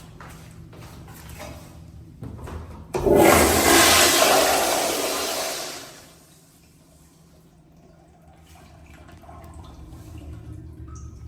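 Toilet flushing: a sudden loud rush of water starts about three seconds in, holds for a couple of seconds, then fades out.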